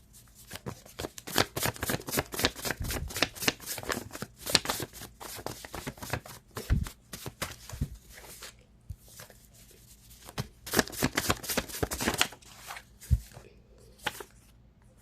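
A deck of cards shuffled by hand: a long run of rapid, dense clicks and riffles that thins out to scattered taps for the last couple of seconds.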